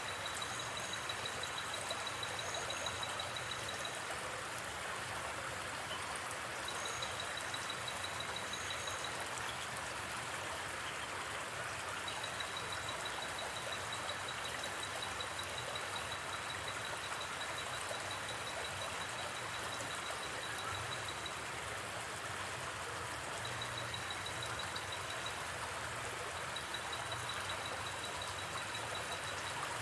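Steady rush of a gently flowing river, with a high, rapid pulsing trill that stops and starts several times.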